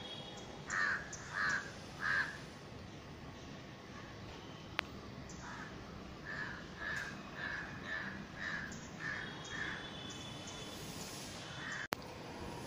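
A bird calling: three loud calls about a second in, then a run of about eight quieter calls, about half a second apart, in the second half.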